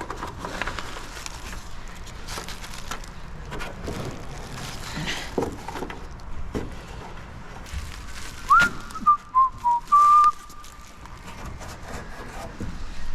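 A person whistling a few notes: a quick rising note, a couple of short lower notes, then a held one, about two-thirds of the way in. Scattered light knocks and rustling from handling a fiberglass bumper cover run throughout.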